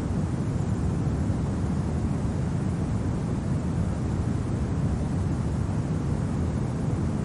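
Steady low, rumbling wind, even throughout with no gusts or distinct events standing out.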